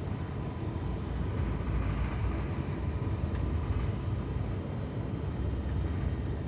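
Cabin noise of an Airbus A350-900 on the ground after landing: a low, steady rumble with a faint steady tone above it.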